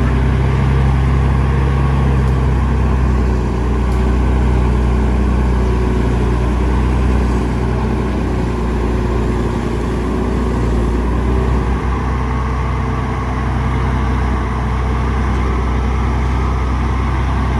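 Heavy diesel engine of road-building machinery running steadily with a deep low hum, and no marked revving or pauses.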